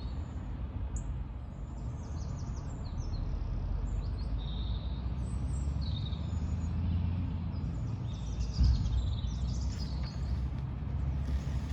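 Outdoor ambience at a pond: a steady low rumble with small birds chirping now and then. One brief low thump about eight and a half seconds in.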